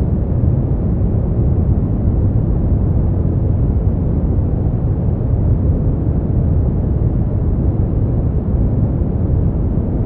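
Continuous sleep-aid noise, a steady deep rushing hiss weighted heavily toward the bass with no treble, unchanging throughout.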